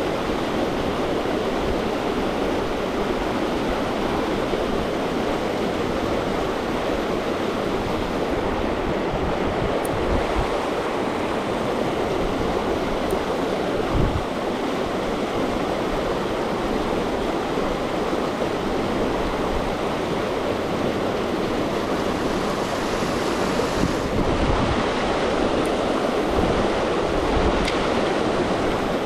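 Steady rushing of river water, even and unbroken, with a single low knock about halfway through.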